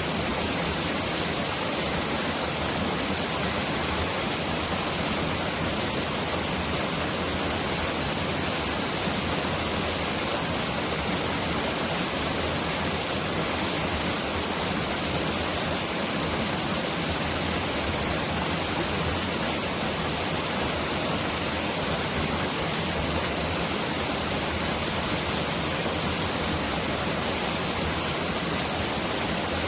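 Mountain valley stream rushing steadily over rocks, a dense, even rush of water that sounds like heavy rain.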